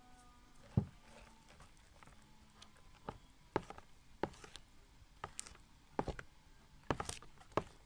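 A series of irregular light taps and knocks, roughly one every half second to a second, with the sharpest near the one-second mark.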